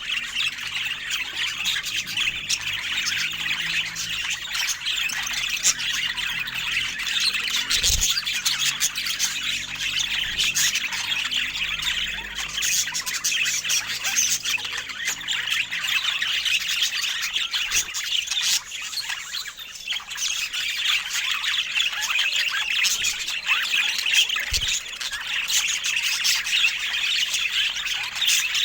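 Budgies chattering continuously, a dense mix of warbles, chirps and squawks. Two short low knocks stand out, one about eight seconds in and one near the end.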